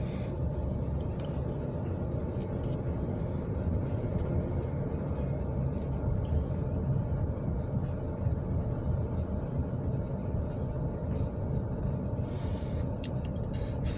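Car driving along, a steady low road-and-engine rumble heard from inside the cabin, with a few faint clicks near the end.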